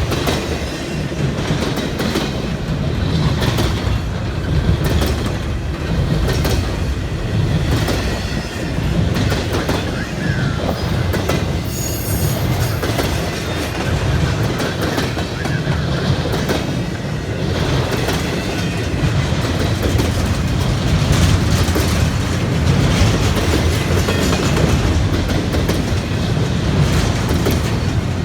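Train cars rolling past close by, their wheels clacking steadily over rail joints with a constant rumble.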